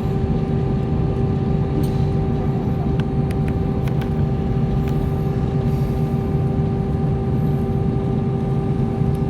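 Steady drone of an airliner heard from inside the cabin: engine and airflow rumble with a constant hum that does not rise or fall, and a few faint clicks.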